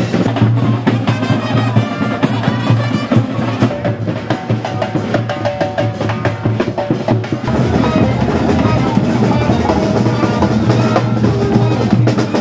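Live carnival parade music dominated by drums and percussion, beating in a dense rhythm; about halfway through the low end grows fuller.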